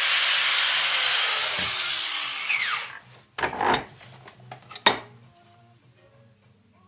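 A power tool's motor winding down after cutting or grinding steel plate, its pitch falling as the hiss fades over about three seconds. Then comes a brief scraping knock and a sharp clank.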